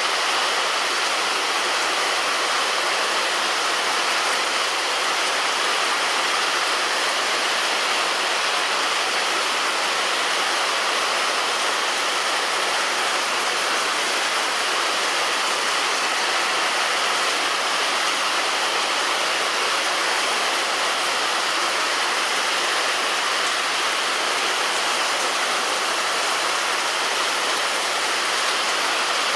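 Heavy rain falling on a roof, a dense, steady rush of water with no single drops standing out.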